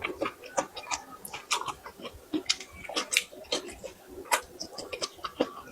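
Close-miked chewing with mouth smacks: an irregular run of sharp clicks and snaps, several a second.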